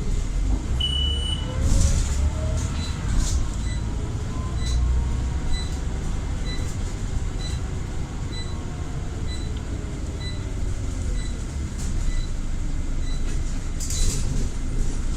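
Scania Omnicity bus running under way, with a low rumble and a faint whine from its ZF automatic gearbox rising in pitch during the first few seconds. A short beep comes about a second in, and a regular tick sounds about once a second through the middle.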